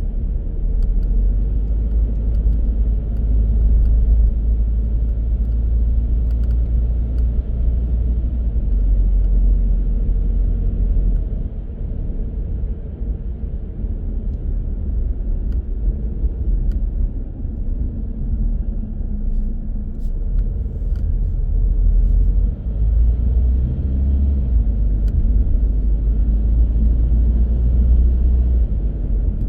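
Low, steady rumble of a car on the move: tyre, road and engine noise. It eases for about ten seconds in the middle, then builds back up.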